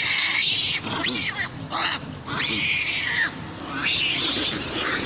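Monkeys screaming during a fight: a run of shrill, high calls, several held for up to about a second with pitch dropping at the end, one after another with short breaks.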